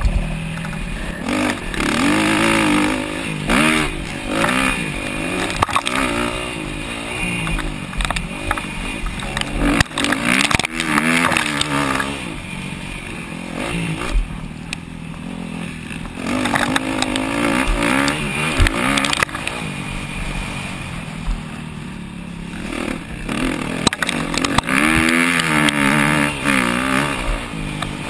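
250cc four-stroke motocross bike engines revving hard, the pitch climbing and dropping again and again with throttle and gear changes, easing off for a stretch near the middle.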